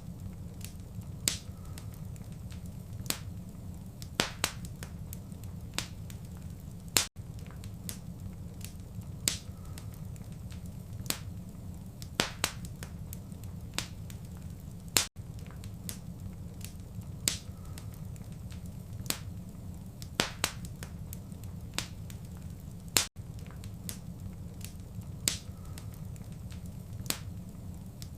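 Wood fire in a fireplace crackling, with scattered sharp pops and snaps over a steady low rumble. The same few seconds of crackling repeat about every eight seconds, each repeat joined by a brief dropout.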